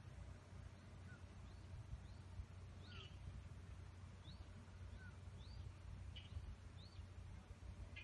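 Faint bird chirps: short upswept calls repeated every half second to a second, with a few lower calls, over a low steady rumble.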